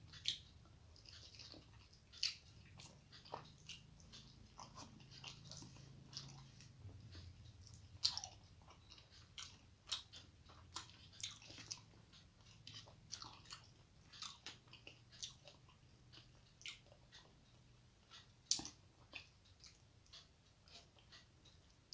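Quiet close-up chewing of rice and fish eaten by hand: irregular wet mouth clicks and smacks, with a few louder ones.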